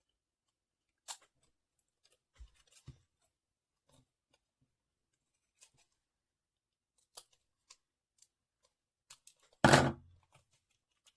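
Scissors snipping paper in short, scattered clicks as a paper model is cut out, with paper handling between the cuts and one louder knock near the end.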